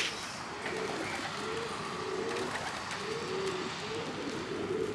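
Loft pigeons cooing, several short, low, wavering coos overlapping one after another.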